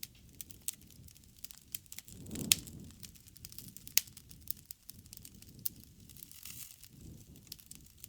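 Wood fire crackling, with many sharp pops over a low rustle of flame; the loudest pop comes about two and a half seconds in.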